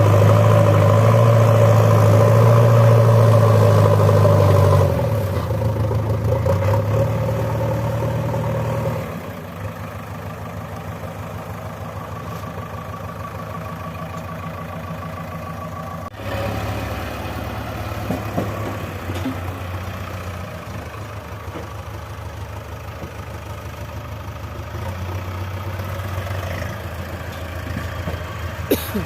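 Heavy diesel engine running loud and working hard for about five seconds, then easing off. About nine seconds in it drops to a lower, steady idle-like running, with a few short knocks near the end.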